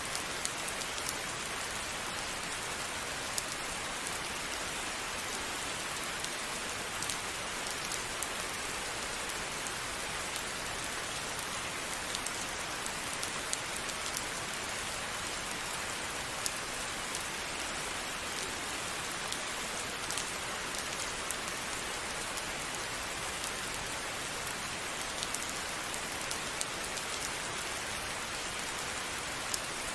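Steady rain, a continuous hiss with scattered individual drops ticking sharply on a hard surface.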